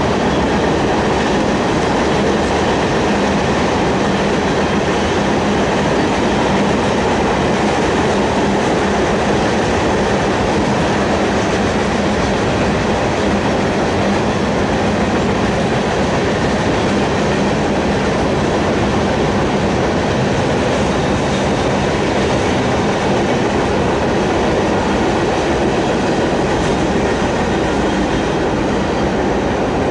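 Freight train cars rolling past: a steady rumble and clatter of steel wheels on the rails as tank cars, hoppers and container well cars go by.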